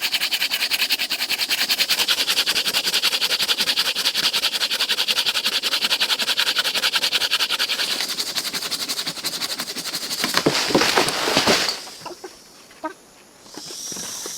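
A loud insect call in very fast, even pulses, cut off suddenly about twelve seconds in; near the end a steadier high-pitched insect whine starts, with a few light clicks.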